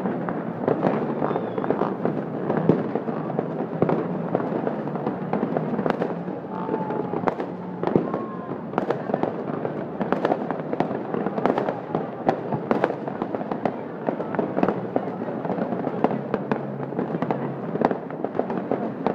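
Fireworks display going off: a continuous, dense run of sharp bangs and crackling, several reports a second, over a steady background din.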